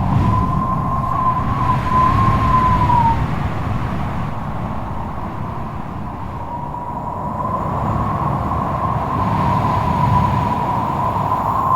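Strong gusty wind howling, a low rumbling roar under a wavering whistle that fades out about three seconds in and builds back from about six seconds on.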